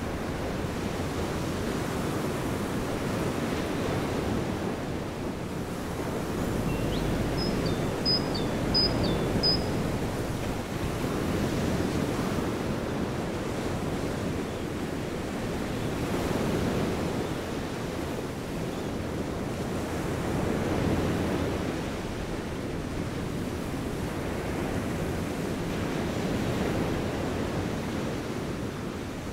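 Ocean surf: a steady rush of breaking waves that swells and eases every few seconds, with a few short high chirps about eight seconds in.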